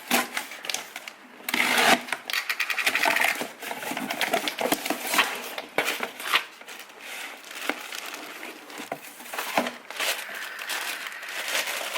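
Mailed package being opened by hand: packaging crinkling, rustling and tearing, with irregular sharp clicks and crackles throughout.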